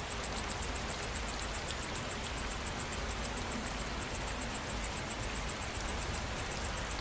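Steady rain falling, an even hiss, with an insect chirping in a fast, even high-pitched pulse of about five or six chirps a second.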